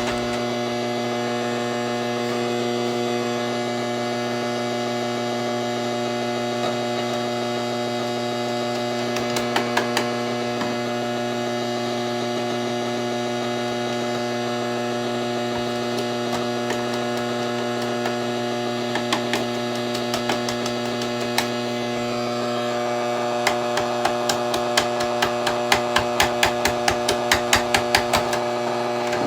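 Steady electrical mains hum throughout, with a few scattered clicks and, over the last few seconds, a quick run of sharp clicks or taps at about two a second.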